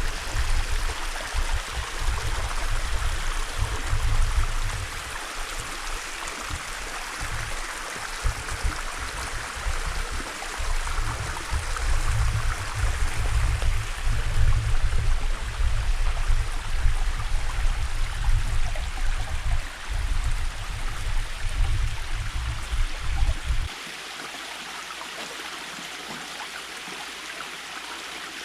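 A stream running steadily, a continuous rushing hiss of flowing water. Under it is a low, gusty rumble that cuts off abruptly about 24 seconds in.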